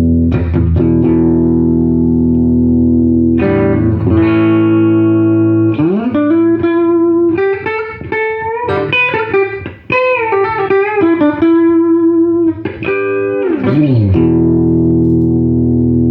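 Gibson SG Standard electric guitar played through a 1968 Fender Super Reverb tube amp: held, ringing chords with sliding notes, then a run of single-note lead lines in the middle, ending on a long sustained chord after a downward slide.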